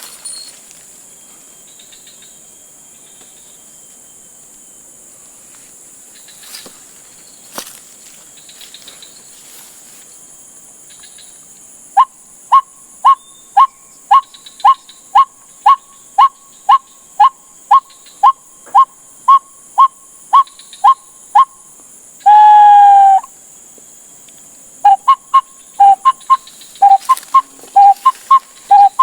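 White-breasted waterhen calling, the decoy used to lure wild waterhens. Over a steady high hiss, a loud run of short, evenly repeated notes starts about halfway in, about two a second. It breaks into one longer drawn-out call, then the short notes resume near the end.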